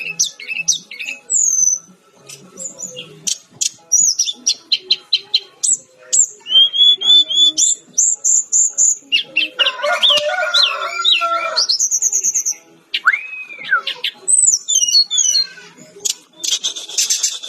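A Sikatan-rimba dada-coklat jungle flycatcher singing a fast, varied song of sharp chirps, whistled slurs and trills, mostly high-pitched. About ten seconds in there is a harsher, fuller squawking phrase, followed by a long arching whistle.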